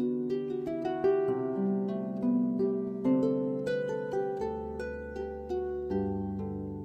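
Solo harp playing a slow melody: plucked notes about two a second, each ringing on and fading under the next, with a deep bass note joining about halfway through.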